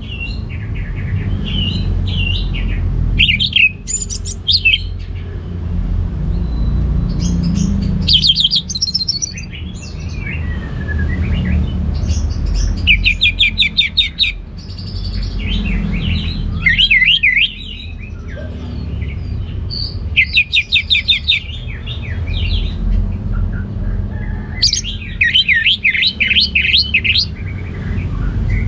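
Orange-headed thrush (anis merah) singing loud, varied phrases of rapid trilled notes, a new phrase every few seconds, over a steady low hum.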